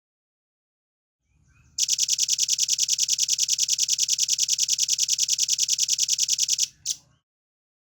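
Velvet-fronted nuthatch (rambatan paruh merah) giving a fast, even rattling trill of high notes, about ten a second, for about five seconds, ending with one short note.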